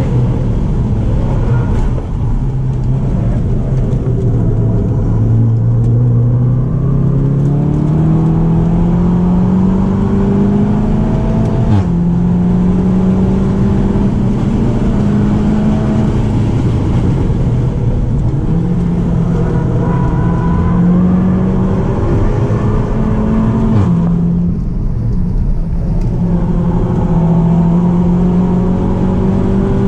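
Seat Leon Cupra 290's turbocharged 2.0-litre four-cylinder heard from inside the cabin under hard acceleration, its note climbing through the revs in long ramps with sudden drops in pitch at the DSG gearchanges, about twelve seconds in and again near twenty-four seconds. Tyre and road noise run underneath.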